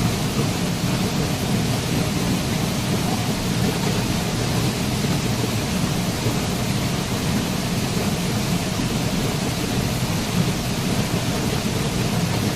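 Waterfall: a steady, deep rush of falling water with no breaks and no single splashes standing out.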